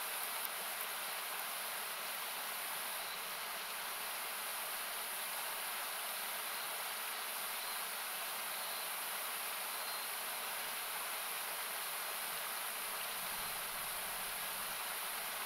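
Steady rushing of a nearby river, equalised down into a hiss, with a few faint pops of a wood campfire crackling.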